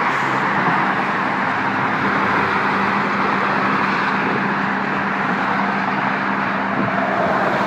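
Road traffic going by: a steady rush of tyre and road noise with a low, even engine hum underneath.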